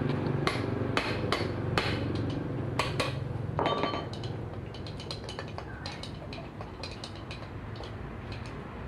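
Hand tools knocking and clinking on metal at irregular intervals, with the sharpest strikes in the first few seconds, over a low steady hum.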